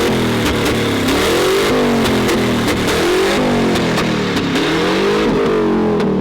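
A car engine revving up and down repeatedly, its pitch rising and falling about every second and a half, over a loud steady hiss of spinning tyres while the car is drifted.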